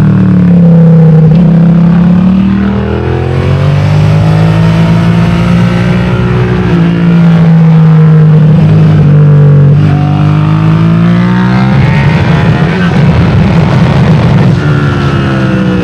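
Suzuki SV650's V-twin engine under hard riding on track, its pitch climbing and falling repeatedly, with sudden drops in pitch where gears change.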